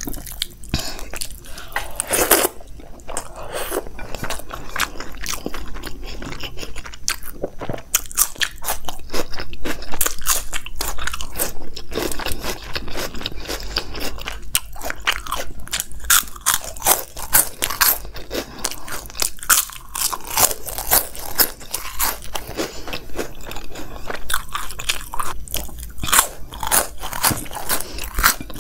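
Close-miked crunching and chewing of crisp puffed corn ring snacks (Crax rings): a dense run of sharp crackles bitten and chewed one after another, with softer chewing in between.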